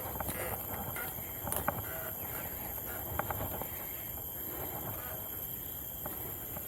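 Mountain bike rolling along a dirt trail: steady tyre and wind noise with scattered clicks and rattles from the bike.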